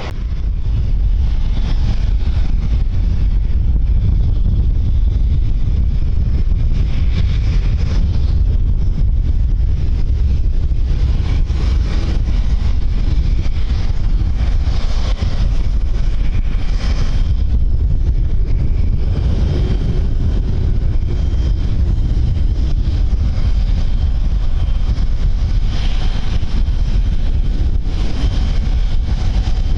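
Strong wind buffeting the microphone, a steady heavy low rumble with gusting hiss above it. About two-thirds of the way in, a faint steady high whine joins it.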